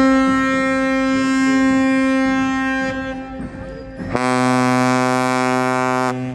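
Ships' horns sounding in turn. A higher-pitched horn is held for about three seconds and fades. About four seconds in, a deeper, louder horn blasts for about two seconds and cuts off.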